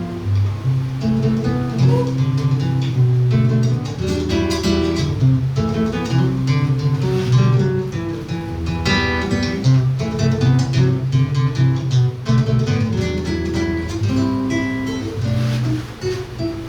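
Seven-string acoustic guitar playing chords, with low bass notes moving underneath.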